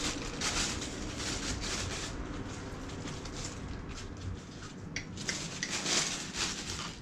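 Thin plastic bag rustling and crinkling as it is handled and cut with scissors, in a run of short rustles with the loudest near the end.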